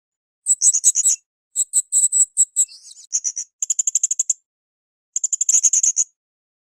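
Srindit (hanging parrot) calling in rapid trains of high, shrill chirps. The calls come in about five short bursts of under a second each, with brief silent gaps between them.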